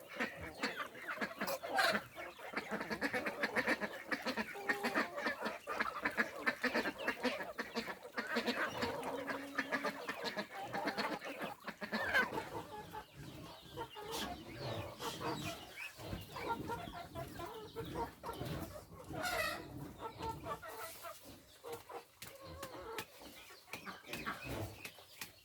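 Chickens clucking, with scattered sharp clicks and knocks among the calls.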